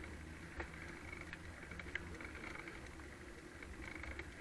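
Faint low wind rumble and hiss on the microphone of a slowly ridden bicycle, with light clicks and rattles, sharpest about half a second and two seconds in.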